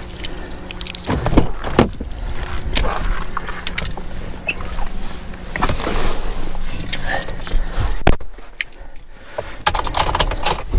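Light metallic jingling and irregular clicking, over a low rumble of handling or wind noise on the microphone, quieting briefly about eight seconds in.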